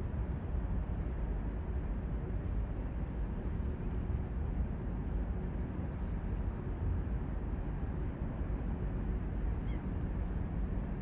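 Steady low rumbling noise with no clear rhythm or pitch, and one brief high rising chirp about ten seconds in.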